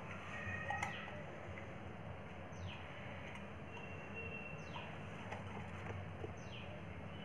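A bird calling three times, short falling chirps about two seconds apart, over a faint steady background hum, with a light click about a second in.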